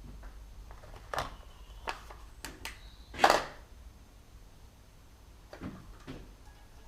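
Metal tools and engine parts being handled: a handful of sharp clinks and knocks, the loudest about three seconds in, a couple leaving a short metallic ring, then two softer knocks near the end.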